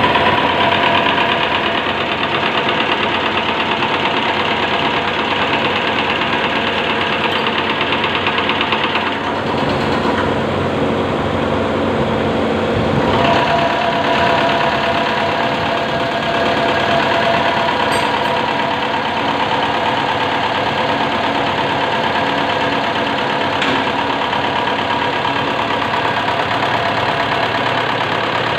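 CAV rotary diesel fuel-injection pump running steadily on a pump test bench. Its sound changes for a few seconds about ten seconds in, then settles back.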